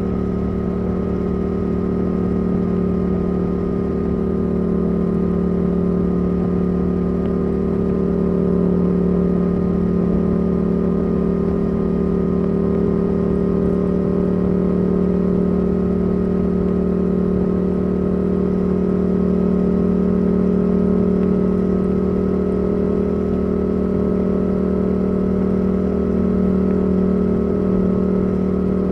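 Yamaha R7's CP2 parallel-twin engine through a Yoshimura R77 exhaust, running at steady, unchanging revs while cruising.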